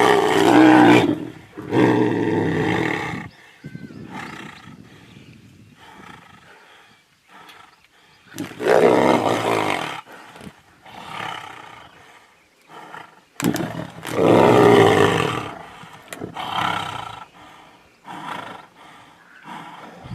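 Male tigers roaring and snarling as they fight: about five loud bursts of a second or two each, with quieter stretches between.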